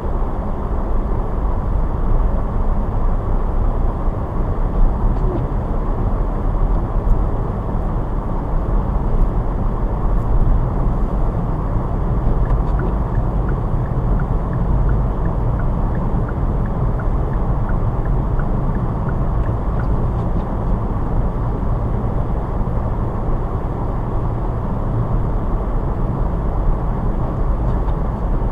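Steady rumble of a car being driven: engine and tyre noise, with faint small ticks in the middle.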